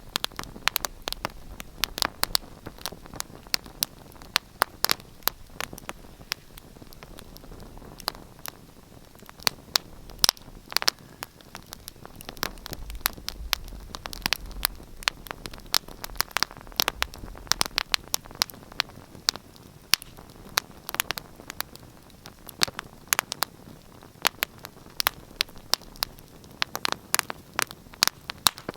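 Wood fire in a fireplace crackling: frequent irregular sharp pops and snaps over a steady soft hiss of burning.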